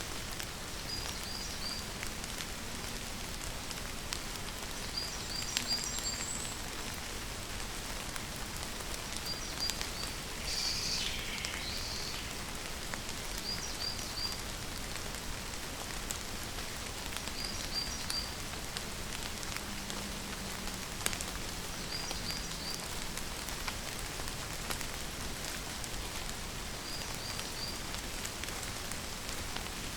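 Steady rain falling, with scattered individual drops ticking. Groups of three or four short high chirps repeat every few seconds, and a longer falling call comes about a third of the way through.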